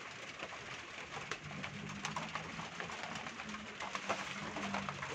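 Rain falling, an even hiss with scattered ticks of drops; from about a second and a half in, a dove cooing low and repeatedly over it.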